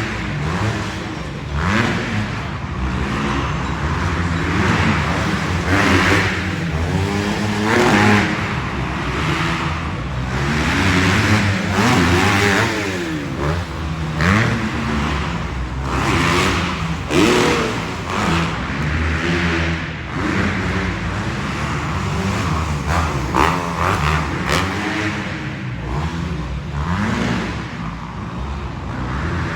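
Several motocross bikes racing together. Their engines rev up and drop off again and again, the pitches overlapping.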